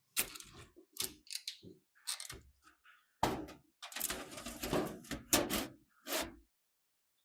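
Desktop PC hardware being handled: a run of sharp knocks, clicks and rattles, busiest in the middle, stopping about a second before the end.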